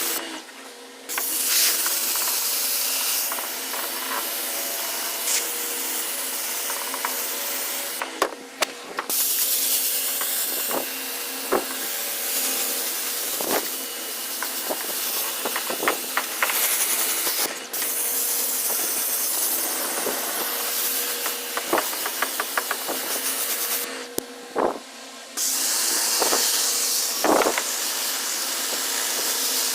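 Water spraying onto plants from a garden sprayer, a steady hiss that stops and restarts briefly several times as it moves along a row, with small clicks and rustles.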